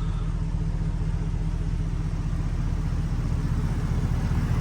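The 4.8-litre Vortec V8 of a 2007 GMC Sierra, fitted with a Flowmaster dual exhaust, idling steadily with a low, even hum.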